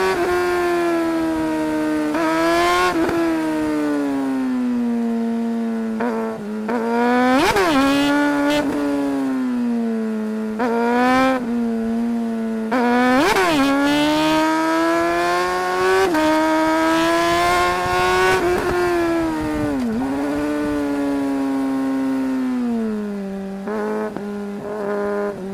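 Suzuki GSR 600's inline-four engine under hard riding. The note climbs and drops again and again as the bike accelerates and shifts, with two short, sharp rev spikes about 7 and 13 seconds in, and settles to a steadier, lower note near the end.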